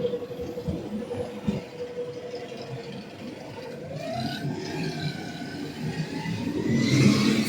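Street traffic: a large road vehicle running past, with a steady hum that fades about three seconds in, then a whine that rises and falls and gets loudest near the end.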